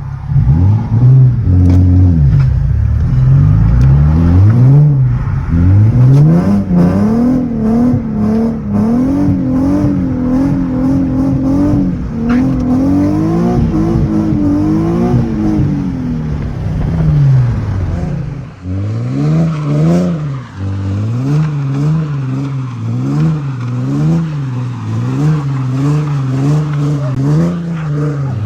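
Nissan 370Z's V6 through an ISR full exhaust, revved hard up and down over and over while drifting. In the second half the revs rise and fall in a quick, even rhythm.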